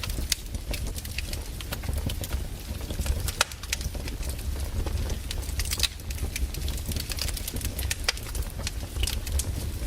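Wood fire crackling: irregular sharp pops and snaps over a low steady rumble of the burning logs.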